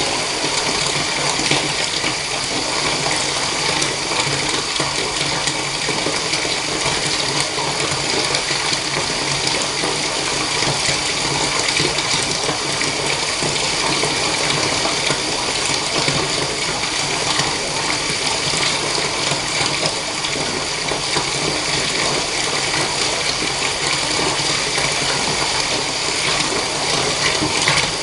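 Water running steadily from a tap into a bathtub, an even rushing splash with no change.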